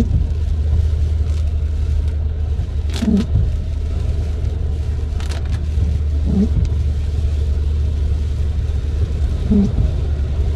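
Car windshield wipers sweeping about every three seconds over steady tyre and road rumble, each pass giving a short dragging squeak. The wiper blades are stiff on the glass.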